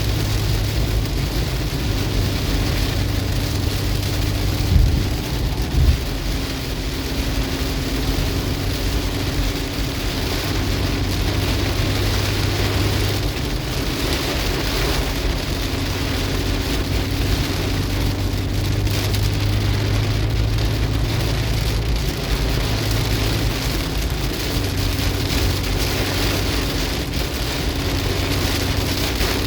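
Heavy rain pelting a car's roof and windshield, heard from inside the cabin, over a steady low hum of engine and road. Two brief low thumps about five and six seconds in.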